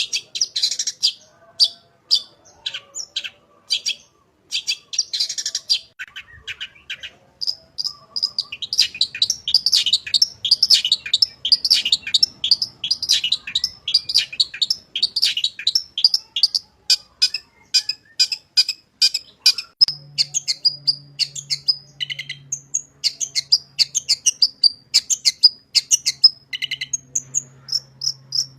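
Long-tailed shrike (cendet) singing a fast, varied song of chirps, sharp notes and short trills, the mimicry-filled 'isian' song used to train other shrikes. The song is broken at first and becomes a dense, continuous run from about a third of the way in.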